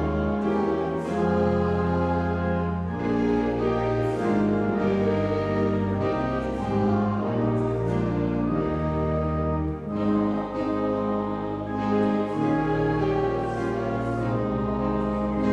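A church organ playing a hymn tune in sustained chords over a deep pedal bass, with the congregation singing the hymn along with it.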